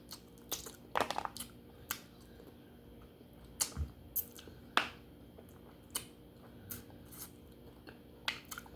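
Close-up mouth sounds of someone eating baked duck head: chewing, with scattered sharp wet clicks and crunches a second or so apart as meat is worked off the bones.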